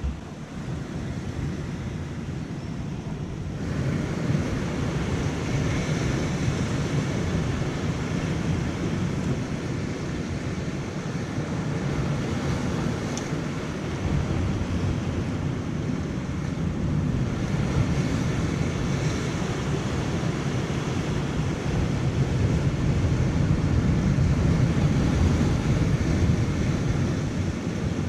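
Rough surf washing against a rocky shore, with wind rumbling on the microphone. Steady throughout, a little louder from about four seconds in.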